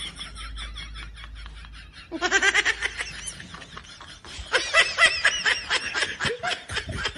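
High-pitched giggling laughter in quick pulses: a loud burst about two seconds in, then a longer fit of laughter from about four and a half seconds.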